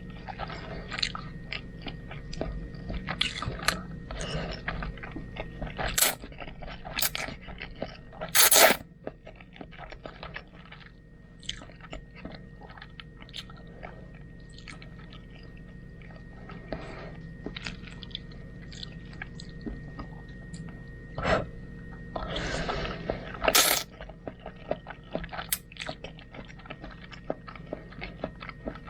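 Close-miked chewing and biting of home-cooked spaghetti: irregular wet mouth clicks and smacks, with a few louder sharp noises, the longest about a third of the way in and another cluster about three quarters through. A faint steady whine runs underneath.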